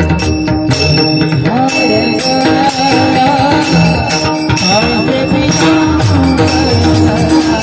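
Devotional abhang music: pakhawaj drum strokes in a dense rhythm under small hand cymbals ringing steadily, with a wavering melody line over them.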